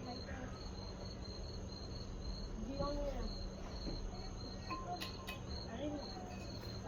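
A cricket chirping steadily, about three short high chirps a second, with a faint voice in the background about three seconds in.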